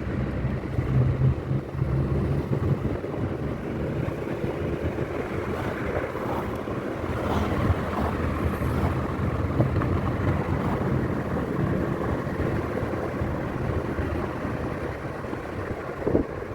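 A motor engine running steadily under travel, with wind noise buffeting the microphone.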